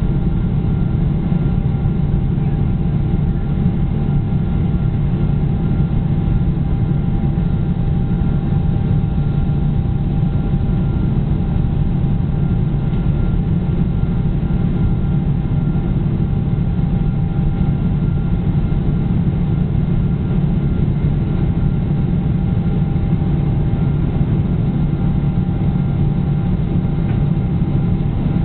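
Boeing 777 jet engines running steadily, heard inside the passenger cabin as a loud, even drone and rush with a few faint steady whining tones above it.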